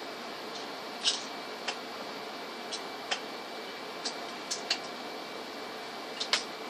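Irregular light clicks and taps of small tools and parts being handled during laptop hinge work, about ten in all, two of them sharper about a second in and near the end. Under them runs a steady hiss with a faint high whine.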